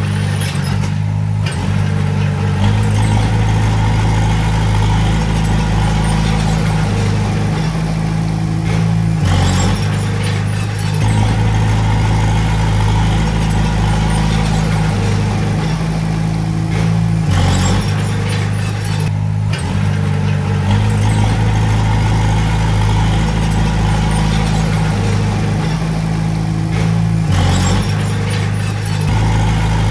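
Heavy diesel engine of earthmoving machinery running steadily under work, its note shifting a few times, with brief clanks about four times.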